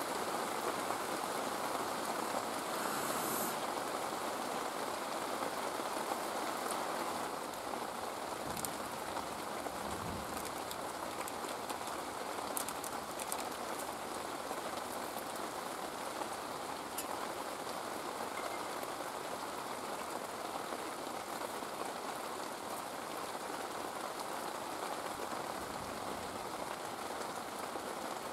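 Steady rain falling, an even hiss with a few louder drips tapping here and there.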